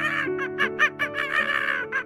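Monkey calls: a quick series of short, high squeaky calls, about five a second, thickening twice into a denser chatter. Soft background music with held notes plays underneath.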